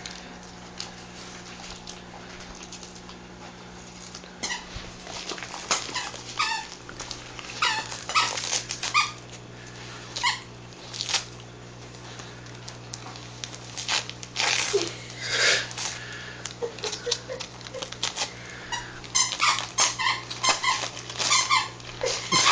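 A dog tearing and rustling wrapping paper off a present in short crackly bursts, with a few brief squeaky dog sounds in between.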